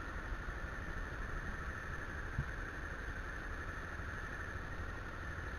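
Motorcycle engine running steadily, an even drone with road noise, with a faint tick about two and a half seconds in.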